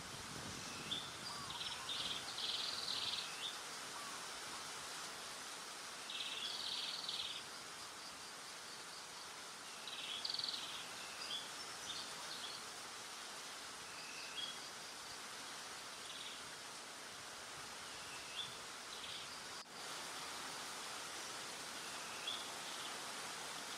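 A bird singing short phrases of high, quick chirps that repeat every few seconds, over a steady hiss of outdoor background noise.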